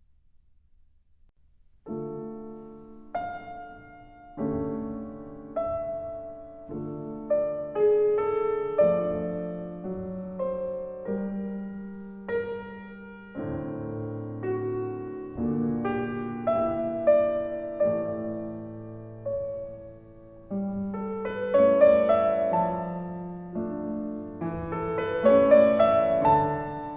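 Slow solo piano music. It starts about two seconds in, with notes and chords that ring and die away, and grows fuller near the end.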